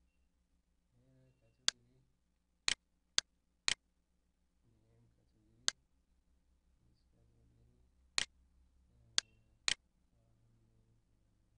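Computer mouse button clicking eight times at irregular intervals, some clicks half a second apart. Each click is sharp and short.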